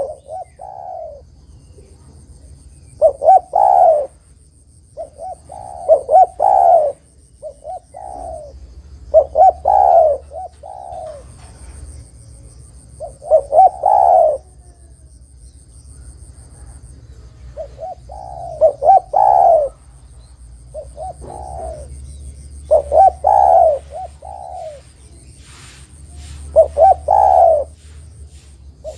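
Spotted dove (tekukur) cooing: a phrase of several quick, throaty coos repeated every two to four seconds, about eight times. Underneath runs a faint steady high whine.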